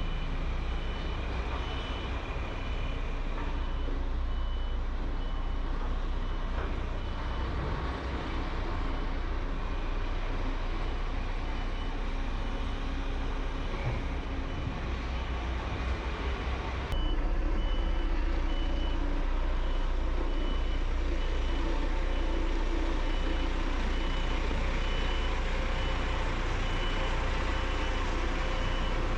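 Heavy construction machinery engine running steadily, with a reversing alarm beeping in a regular rhythm. The sound jumps abruptly a little louder just past halfway.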